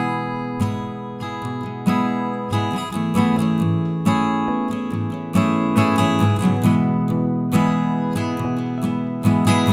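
Background music: acoustic guitar playing chords with a steady run of picked and strummed notes.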